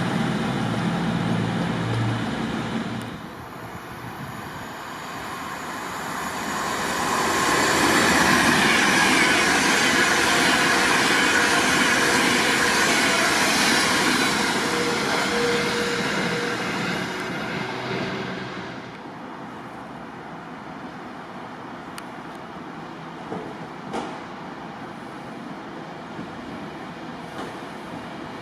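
A train passing through the station: its rushing noise swells, is loudest for several seconds, and fades away after about nineteen seconds. A low droning at the very start stops about three seconds in, and a few sharp clicks come later.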